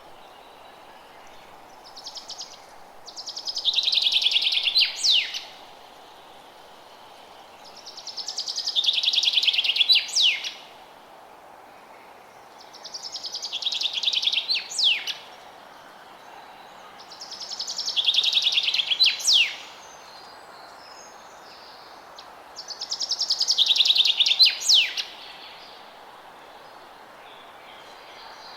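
A forest songbird repeating the same song five times, about every five seconds: each song is a quick run of notes that grows louder over about two seconds and ends in one or two sharp, high whistled sweeps. A steady faint hiss of outdoor background noise fills the gaps between songs.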